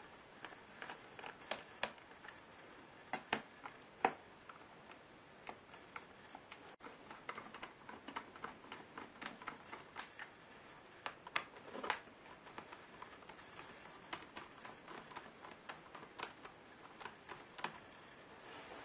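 Irregular small clicks and taps, several a second with a few louder knocks, from a Lenovo Y570 laptop's plastic and metal parts being handled while it is taken apart.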